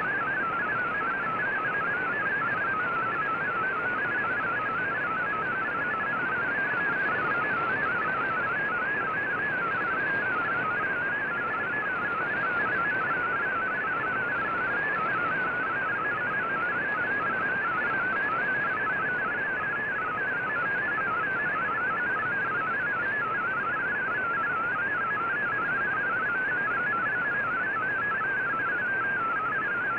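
Shortwave radio receiving a VOA Radiogram MFSK digital text transmission: a fast, continuous warble of tones hopping within a narrow band, over steady receiver hiss.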